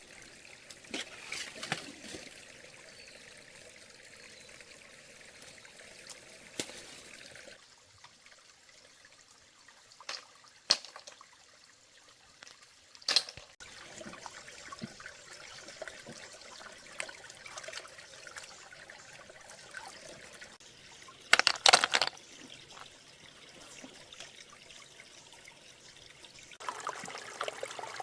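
Water trickling steadily, with a few sudden sharp sounds now and then. The loudest is a quick cluster a little past two thirds of the way in, and the water grows louder near the end.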